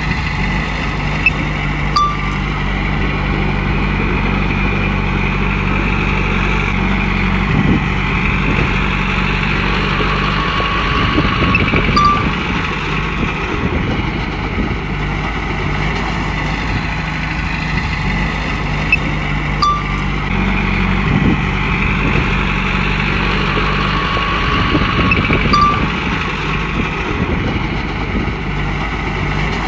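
Komatsu bulldozer's diesel engine running under work, swelling and easing in a cycle repeating about every nine to ten seconds as the machine pushes and backs off. A few short high squeaks come through along the way.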